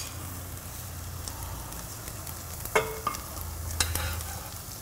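Sliced onions and mustard seeds sizzling gently in oil in a metal pot while a wooden spatula stirs them, scraping the bottom, with a few light clicks.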